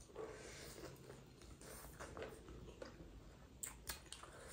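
Faint chewing and mouth sounds of people eating chicken biryani with their hands, with a few sharper clicks near the end.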